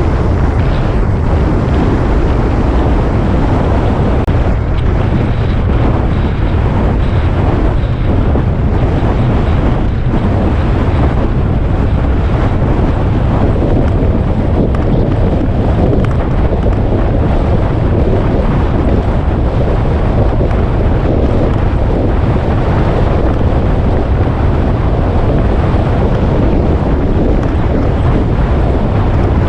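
Wind rushing over the microphone of a moving motorcycle, a loud steady rumble with the ride's engine and road noise mixed in.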